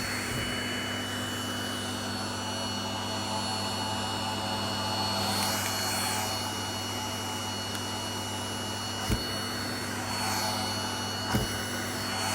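Vacuum cleaner running steadily with a constant hum and a high whine, its airflow swelling twice as the nozzle moves; two short knocks about nine and eleven seconds in.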